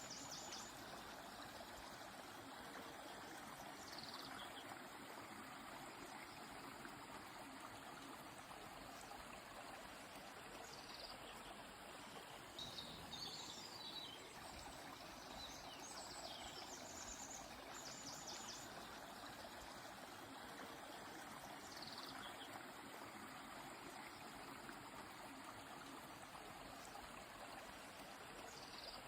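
Faint, steady rush of a flowing river, with short high bird calls above it every few seconds.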